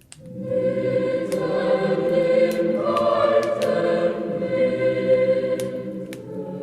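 A choir singing a slow Christmas song in long held chords, the harmony shifting about three seconds in. Sharp crackles from a burning wood fire pop through it now and then.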